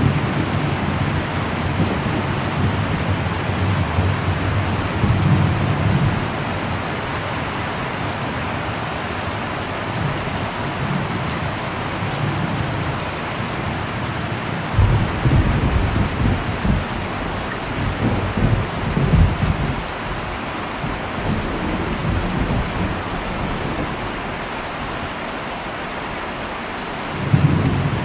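Heavy rain drumming steadily on an old metal roof, with low rolls of thunder rumbling in and out several times, the longest about halfway through and another building near the end.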